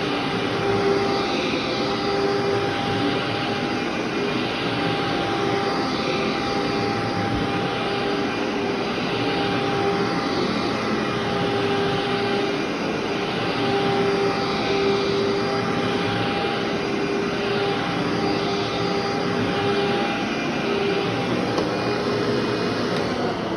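Vacuum cleaner running steadily on a long-unvacuumed carpet, its motor hum swelling and dipping every second or two as it is pushed back and forth.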